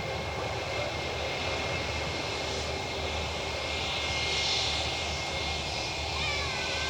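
Airbus A320-232 jet airliner's IAE V2500 turbofan engines running steadily at low power ahead of the take-off run, a constant whine with high fan tones over a low rumble. A short wavering tone rises and dips near the end.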